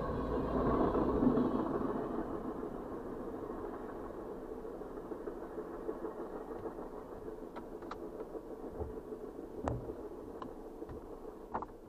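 Freight train's last tank cars rolling past, the rail noise loudest about a second in and then fading away as the end of the train leaves, heard from inside a car. A steady low hum remains, with a few faint clicks late on.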